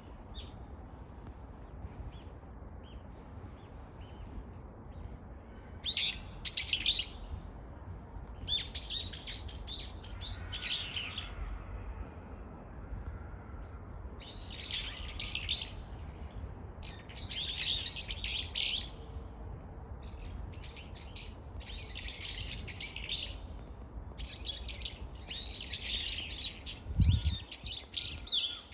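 Songbirds chirping and singing in repeated bouts of a few seconds each, over a steady low rumble. A brief low thump comes near the end.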